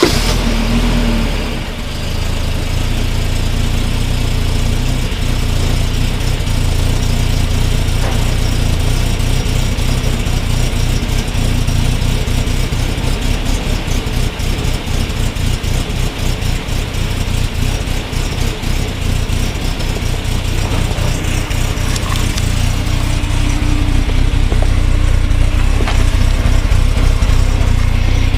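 1993 Volvo 240's B230FX 2.3-litre four-cylinder idling just after a cold start. It settles from a brief flare in the first two seconds into a steady idle.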